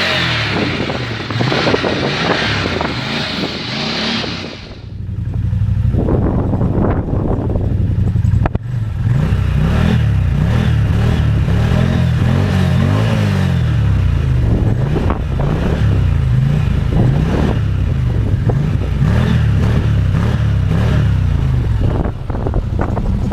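CFMOTO ZForce 800 EX UTV's V-twin engine being revved up and down repeatedly through its exhaust. For the first few seconds strong wind hisses over the microphone, then the engine note rises and falls again and again.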